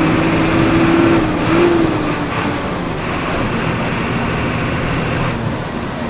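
Volkswagen 17.230 EOD bus engine running under load, heard from inside the bus. The revs climb briefly, then fall away about two seconds in, and the engine note eases off further near the end.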